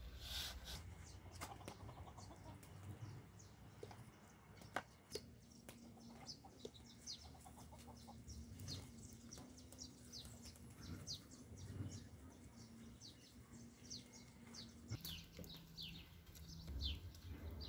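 Faint chirping of small birds: many short, high, falling chirps repeating throughout, with a few soft knocks.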